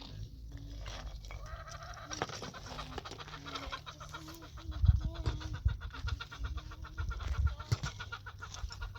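Short, repeated animal calls, with a run of low thumps near the middle, the loudest about five seconds in.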